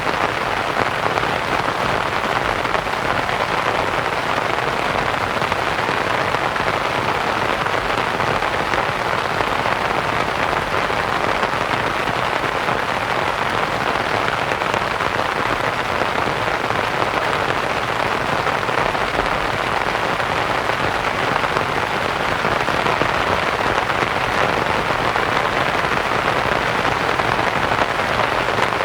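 Steady rain pattering on a canvas tent, blended with a constant white-noise hiss.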